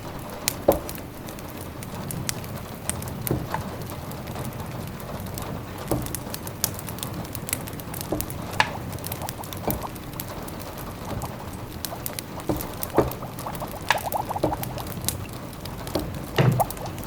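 Wood fire crackling in a fireplace: irregular snaps and pops over a steady low hiss.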